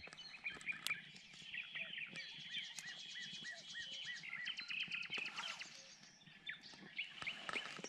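Several songbirds singing and calling together: a busy mix of high chirps and trills, with one bird repeating a short note a few times a second.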